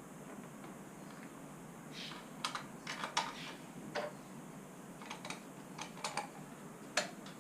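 Irregular light clicks and taps of small parts and tools being handled during engine top-end reassembly, starting about two seconds in, with the sharpest click near the end.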